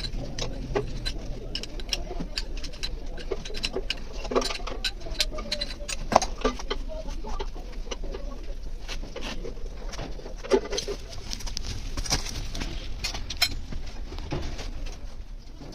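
Irregular sharp clicks and knocks of hand tools against metal engine parts, over a steady low hum.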